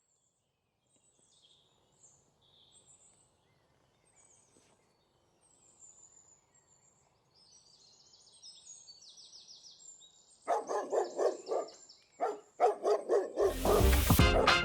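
Faint, high-pitched chirping, then from about ten seconds in a series of loud, short animal calls repeated in quick bursts.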